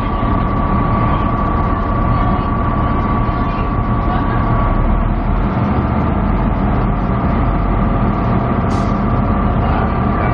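The Spirit of the Outback's diesel-electric locomotives running steadily with a constant whine over a low hum as the train readies to depart. About halfway through, the low hum grows fuller and the whine shifts. A short hiss comes near the end.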